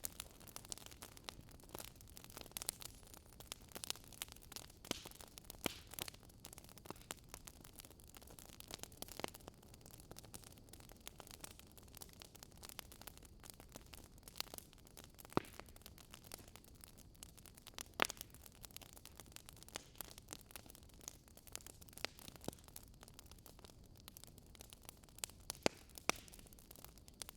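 Wood fire crackling softly: a low hiss with scattered irregular snaps and a few louder pops.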